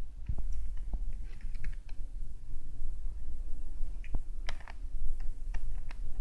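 A CD case and its plastic packaging being handled: irregular small clicks and taps, several coming close together about two thirds of the way in.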